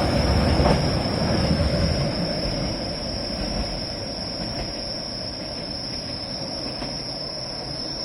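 Keihan 600-series two-car train running on the rails, its low rumble fading away over the first few seconds. A steady high-pitched tone carries on throughout.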